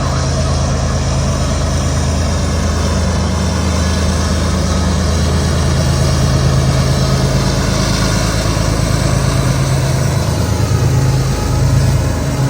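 A large engine running steadily at idle, a continuous low hum with a slight shift in its tones near the end.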